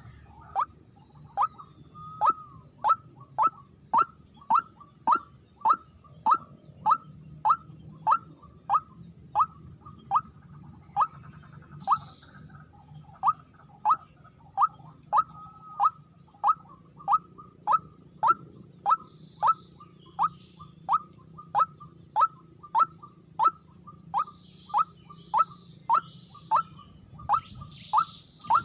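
A rail's call, the kind used to lure ruak-ruak and crakes: one short, sharp note repeated steadily, a little under two a second, each note dropping slightly in pitch. It pauses briefly about twelve seconds in.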